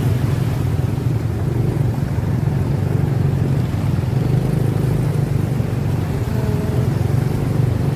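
Motorcycle on the move: a steady rumble of engine and road noise with no break or change.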